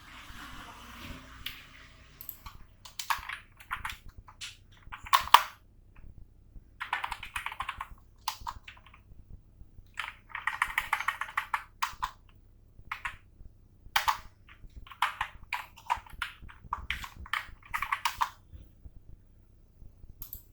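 Computer keyboard typing in quick runs of keystrokes, broken by pauses and single sharp key clicks.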